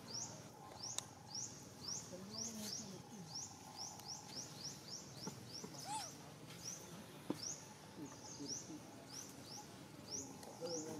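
A bird repeating a short, rising chirp about twice a second, with a few faint clicks in the background.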